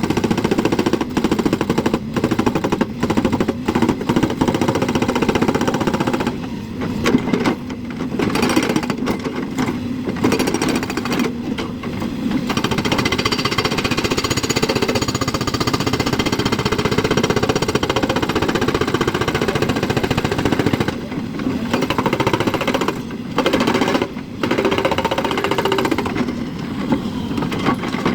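JCB excavator's diesel engine running with a dense, rapid clatter, easing off briefly a few times.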